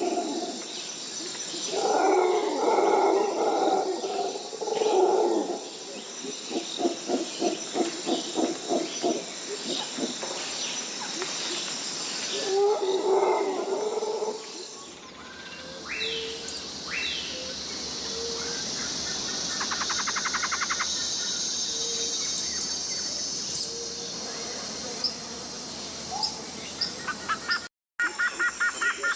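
Tropical rainforest wildlife: for the first half, loud rough animal calls come in bouts, with a long run of rapid pulsed calls in between. About halfway through, the sound changes to a steady high insect drone with scattered bird chirps and whistles, and it drops out briefly near the end.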